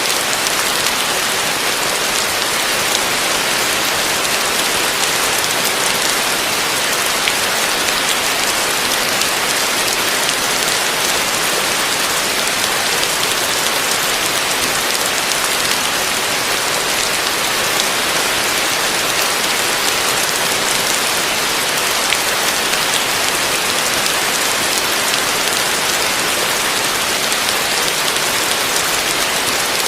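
Heavy rain falling steadily: a dense, even hiss of drops on surfaces that does not change in strength.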